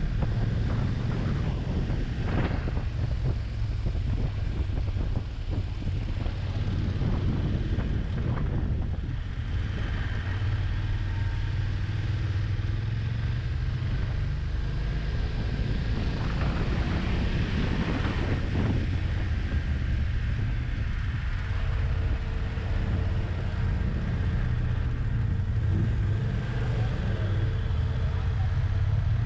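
Motorcycle engine running steadily under way, its low drone holding a fairly even pitch, with wind noise on the microphone.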